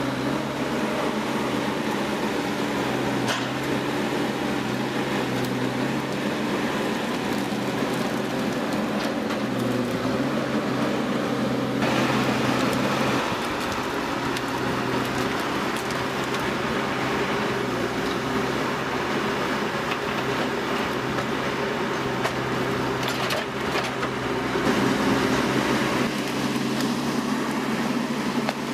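Machinery running steadily with an even engine-like hum. The sound changes abruptly about twelve seconds in and again near the end, as one machine gives way to another.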